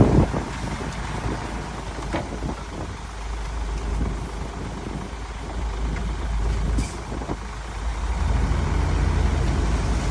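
Heavy diesel earthmoving machinery running, a low engine rumble with a sharp clank at the start and a few lighter knocks. There is a short hiss partway through, and the engine note rises again near the end.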